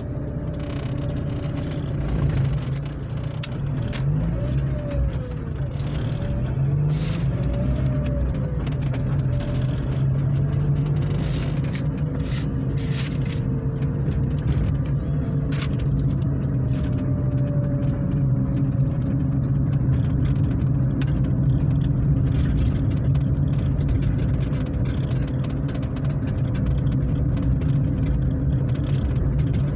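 Engine and road noise of a moving vehicle, heard from on board. The engine pitch rises and falls a few times in the first several seconds as it speeds up and changes gear, then settles into a steady drone, with a few light clicks.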